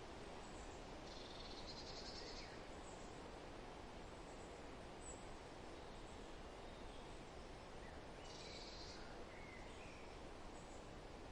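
Steady wind rustling through forest foliage, with faint birdsong over it: a rapid high trill about a second in and again later, and a few short chirps.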